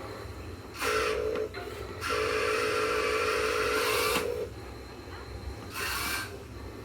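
Huina 1580 RC excavator's motors whirring in three separate runs: a short one about a second in, a longer one of about two and a half seconds, and a brief higher, hissier one near the end.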